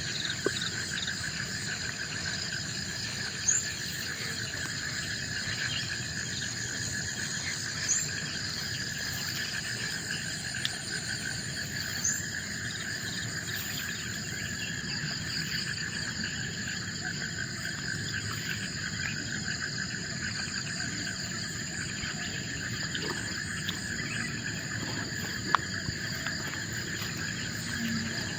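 Forest chorus of insects such as crickets, several steady high trills layered together, one with a fast pulsing beat. A short, very high rising note sounds about every four seconds over the first half, three times in all.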